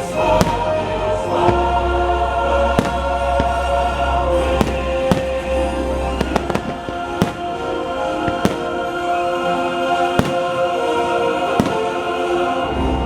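Fireworks bursting in sharp, irregular bangs, roughly one a second, over the show's sustained orchestral soundtrack with a choir.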